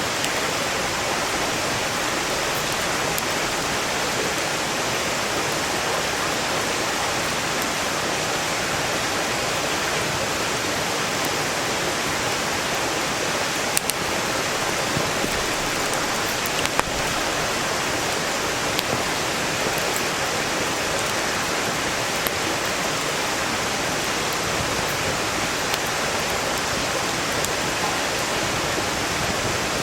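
Mountain stream rushing steadily and loudly, with a wood campfire giving a few sharp crackling pops scattered over it.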